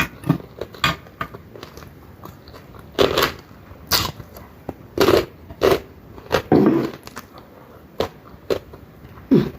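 Close-up mouth sounds of a person eating: crunchy bites and chewing in irregular bursts about a second apart.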